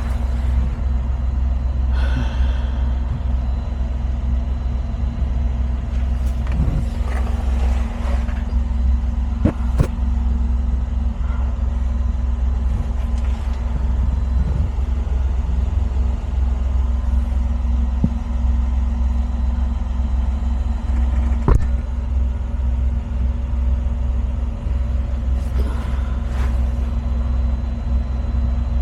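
A vehicle engine idling steadily, with a few short knocks and clicks over it.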